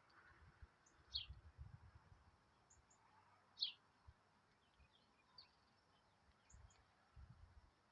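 Faint songbird chirps: two short, sharp chirps about two and a half seconds apart, with a few tiny high peeps between, over soft low rumbles.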